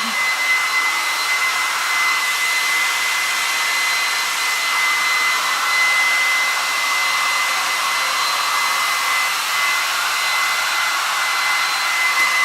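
Hair dryer running steadily: an even rush of air with a high, constant whine from its motor.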